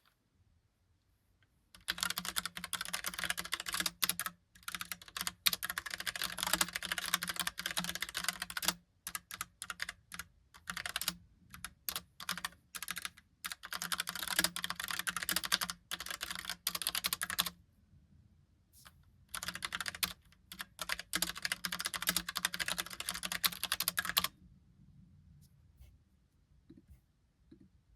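Logitech POP Keys mechanical keyboard with round typewriter-style keycaps being typed on in fast, dense runs of keystrokes. Typing starts about two seconds in, breaks briefly a couple of times in the middle, and stops a few seconds before the end.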